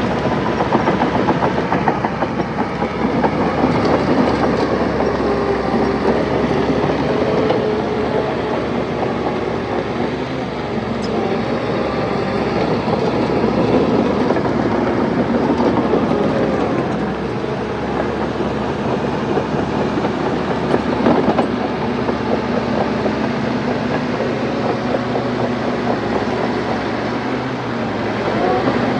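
Crawler dozer working: its diesel engine runs steadily under load while the steel tracks clank and rattle.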